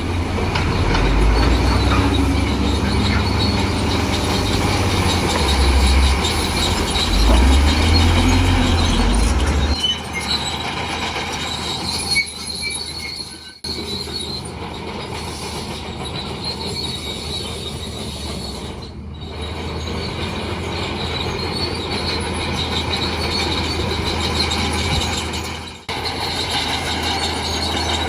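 Bulldozer at work: its steel crawler tracks squeal and screech over the low rumble of its diesel engine. The rumble swells and falls during the first ten seconds, then runs steadier, and the sound cuts out briefly twice.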